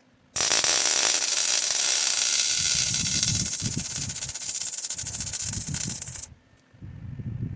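A loud, steady spraying hiss that starts abruptly and cuts off suddenly about six seconds later, with low rumbles underneath.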